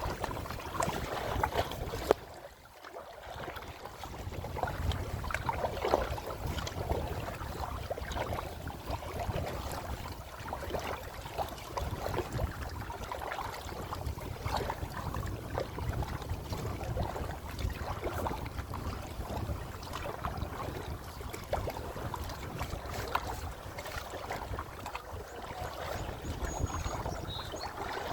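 Kayak paddling on open water: paddle splashes and water sloshing against the hull, irregular and unbroken, over a low rumble of wind buffeting the microphone.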